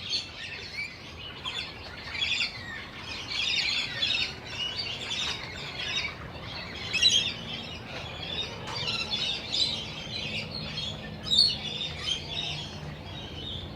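Many birds chirping and chattering together in a continuous busy chorus of short high calls.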